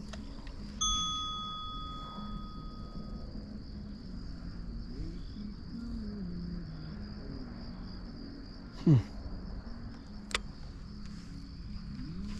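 A single bell-like metallic ding that rings out and fades over about two seconds, over a steady high-pitched whine. A short, loud whoosh comes about nine seconds in.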